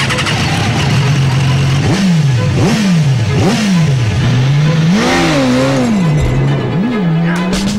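BMW S1000RR's inline-four engine running steadily, then revved in a series of quick blips, its pitch rising and falling about five times.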